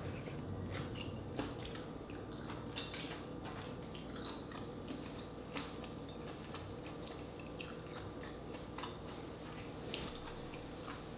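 Chewing a green-lipped mussel: irregular soft mouth clicks over a steady low hum.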